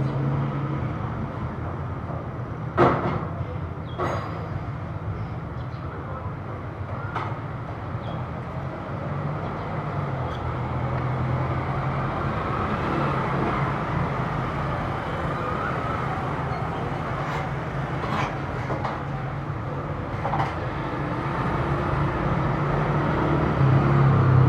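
Road traffic passing: a steady rumble of engines and tyres, a sharp knock about three seconds in, and a louder vehicle passing near the end.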